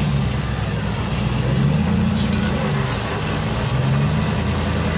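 Off-road vehicle engines running steadily during a multi-winch recovery of a heavy, wedged Jeep, their pitch gently rising and falling as the engines work under load.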